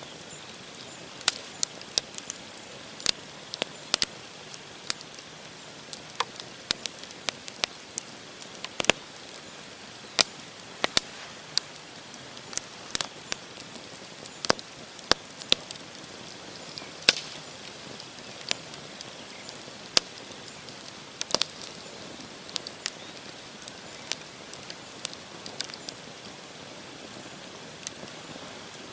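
Wood campfire crackling: burning logs giving irregular sharp pops and snaps over a steady soft hiss.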